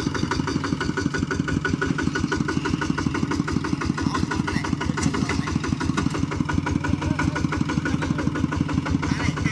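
Kubota hand tractor's engine running steadily with a rapid, even chugging pulse.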